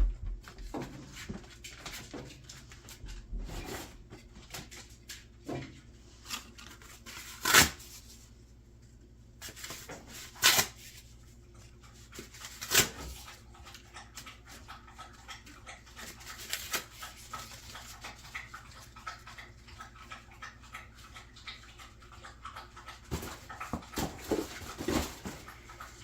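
Scattered knocks and clatter of wood and kindling being handled in a wood stove, with three louder sharp knocks in the middle, while a dog close by whimpers and moves about.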